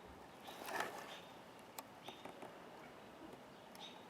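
Faint, short bird chip calls repeating every half second to a second, with a brief rustle just under a second in and a few sharp clicks about two seconds in.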